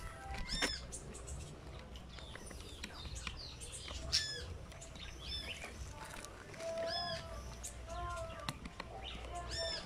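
Birds chirping: a short, loud chirp that rises and falls comes about every three seconds, with fainter calls in between.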